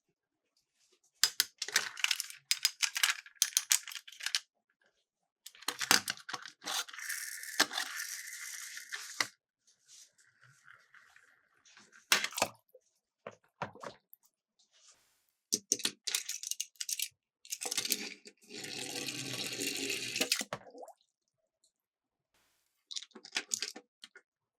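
Miniature Disney Pixar toy cars clattering and rattling down a slope in several bursts, with two longer stretches of splashing water as they drop in.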